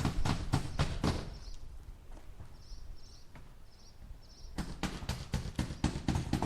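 Hammer driving nails into wood in quick runs of about four blows a second. The blows stop about a second in and start again after a pause of some three seconds.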